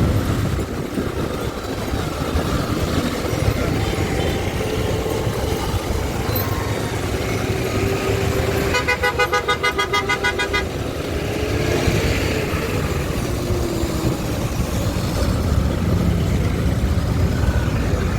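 Steady engine, road and wind noise from riding a motorbike in traffic. About nine seconds in, a vehicle horn sounds for about two seconds in rapid pulses.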